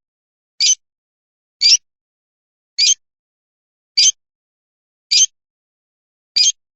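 Lovebird giving short, high-pitched chirps, six of them at roughly one-second intervals.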